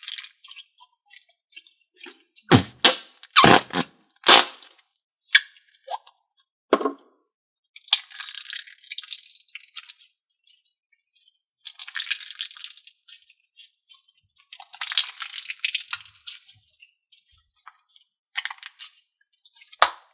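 Slime and putty squeezed and worked by hand: a run of sharp wet pops and squelches, then three crackly squishing stretches of about two seconds each.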